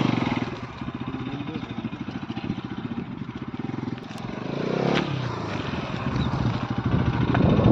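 Bajaj Pulsar NS200 motorcycle's single-cylinder engine running; its note swells and dips about five seconds in, then grows louder near the end.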